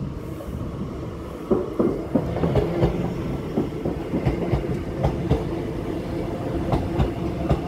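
A train running along the track: a steady rumble and drone with irregular sharp clicks of the wheels passing over rail joints.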